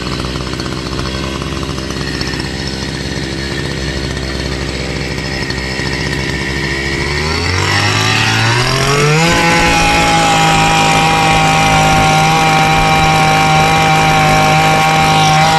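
Small two-stroke engine idling, then throttled up about halfway through and held at a steady high speed.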